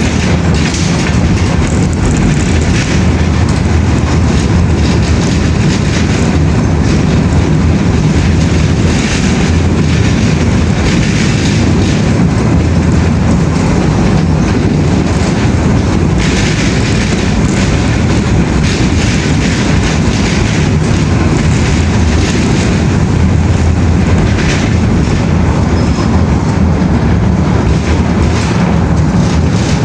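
Steady, loud rumbling noise of a moving vehicle, even throughout, with strong low rumble.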